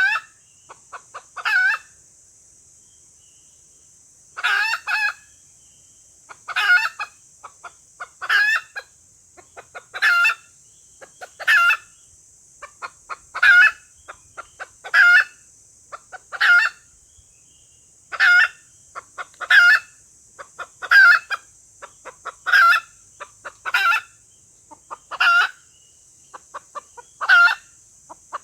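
Female junglefowl lure call: a couple of short clucks, then a longer cluck, repeating about every one and a half seconds over a steady high hiss.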